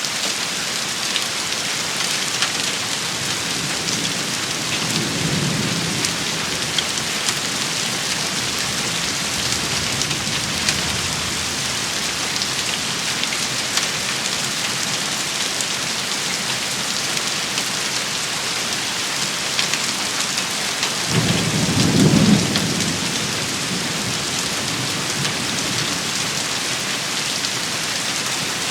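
Steady rain shower with scattered sharp drop clicks. Low thunder rumbles faintly about five seconds in and more strongly about twenty-two seconds in.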